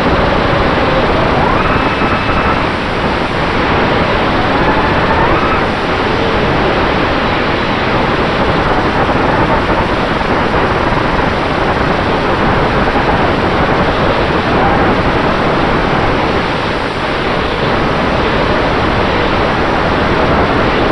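Onboard audio of an FPV quadcopter in flight: steady rushing wind and propeller noise, with the whine of its brushless motors rising and falling as the throttle changes, most plainly in the first few seconds.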